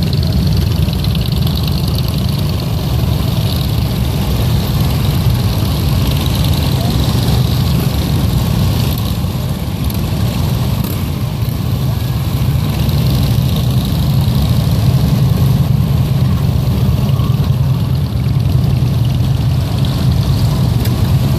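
Vehicle engines running steadily in a low, even rumble, from the vehicles of a funeral procession.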